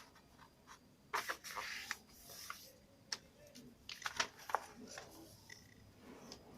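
A sheet of paper being handled and folded: crinkling rustles and sharp creasing clicks, with the longest rustle about a second in and a cluster of clicks near the four-second mark.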